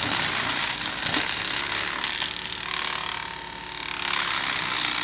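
Tractor-mounted hedge cutter with spinning blades chopping dry hedge branches: a dense, continuous crackle of breaking wood over the tractor's running engine.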